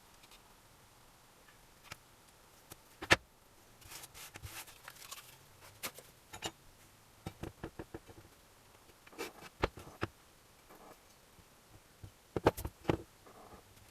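Irregular clicks and knocks of tools and small metal engine parts being handled during engine assembly, with one sharp strike about three seconds in and quick clusters of taps later.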